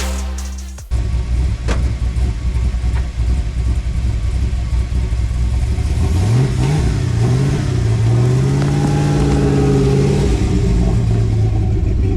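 Square-body Chevy truck with an LS-swapped 6.0 L V8 running, its engine note climbing about halfway through, holding higher for a few seconds, then dropping back before the end.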